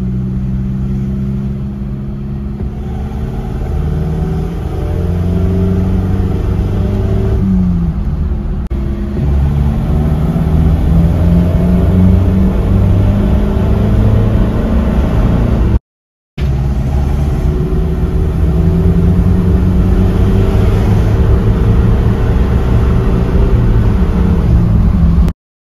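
Ford Ranger's turbo-diesel engine accelerating, heard from inside the cab, growing louder over the first half. The sound cuts out for about half a second a little past the middle, then the engine carries on pulling.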